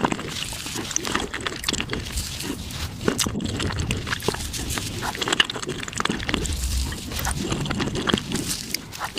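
Mukbang eating sounds played at five times speed: a dense, fast run of wet chewing clicks and mouth smacks.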